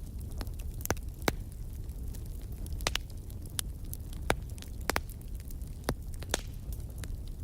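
Campfire burning with a steady low rumble of flames and irregular sharp crackles and pops of burning wood, about a dozen of them, the loudest about a second in.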